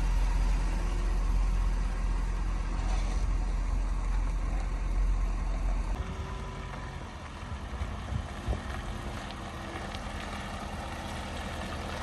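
A truck running with a steady low rumble that drops away about halfway through, leaving lighter running noise with a few knocks.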